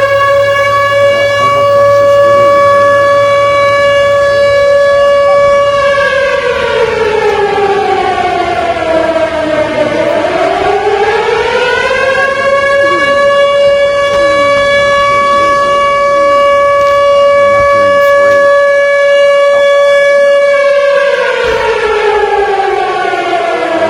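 Outdoor warning siren sounding a wail. Its pitch rises to a steady tone and holds, falls and rises again about ten seconds in, holds once more, then begins to fall near the end.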